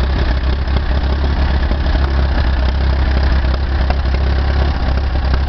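Case Model C tractor's four-cylinder engine idling steadily with a deep low rumble, its speed holding even.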